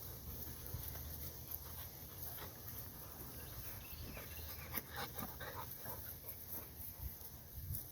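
Puppies panting and scuffling as they play, with a cluster of light clicks and scuffs about halfway through.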